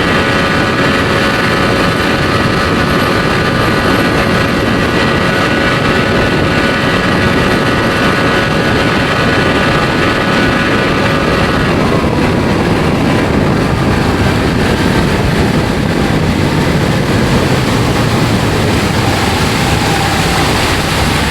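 1992 Johnson 60 hp two-stroke outboard running steadily with the boat under way, its engine tone sitting over a steady rushing noise. About twelve seconds in the engine note drops slightly.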